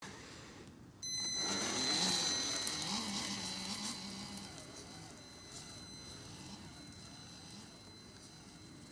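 Electric drive of an RC crawler truck, the Vaterra Chevrolet Blazer K5, whining as it drives. A high steady motor and speed-controller whine starts suddenly about a second in, with a lower hum that rises and falls with throttle. It is loudest early on and then slowly fades.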